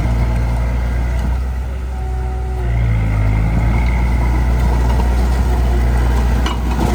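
Heavy diesel engine of earthmoving machinery running, easing off briefly about two seconds in and then picking up again under load.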